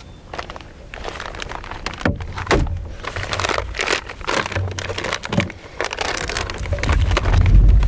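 Irregular rustling, crinkling and light knocking handling noises, with a low rumble building near the end.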